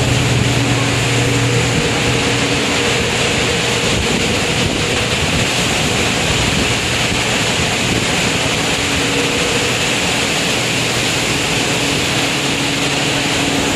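Steady rush of wind and sea aboard a ship in a typhoon, with a low machinery hum underneath that fades in and out.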